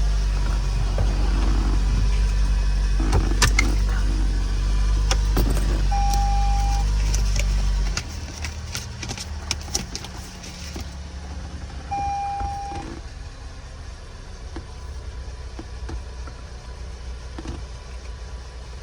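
Car engine idling, with a few sharp clicks and two short electronic beeps about six seconds apart; the low rumble drops off sharply about eight seconds in.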